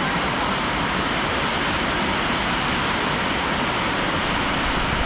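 Steady, loud rushing noise with no breaks.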